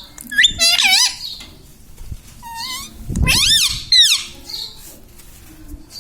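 Indian ringneck parrot vocalizing: four short, high-pitched warbling calls, the loudest about three seconds in.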